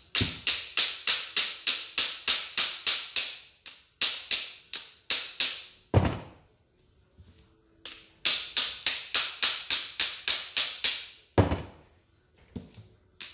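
Hammer blows knocking a knock-off type CV joint off a Vauxhall Corsa D driveshaft: runs of quick, sharp metallic strikes, about four a second, broken by short pauses and a few heavier single blows.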